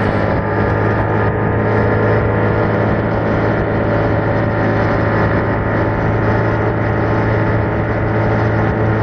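2021 Yamaha MT-07's parallel-twin engine running through its original exhaust while the bike is ridden at a steady, even pace, a loud, unchanging drone with no shifts or revving.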